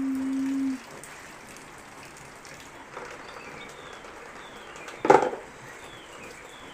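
Steady rain with short falling chirps every second or so. A held low hum in the first second, and one loud short call about five seconds in.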